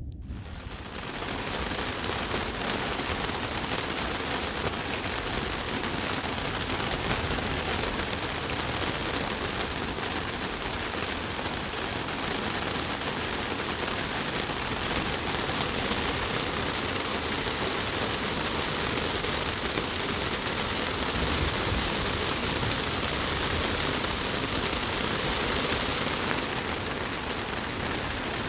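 Heavy rain falling steadily, a thunderstorm downpour.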